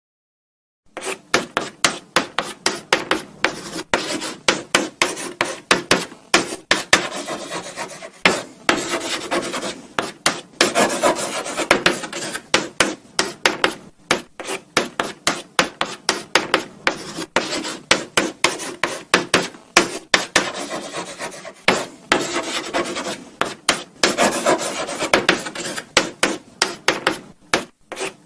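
Chalk writing on a blackboard, starting about a second in: quick scratching and tapping strokes, with a few longer stretches of steady scraping.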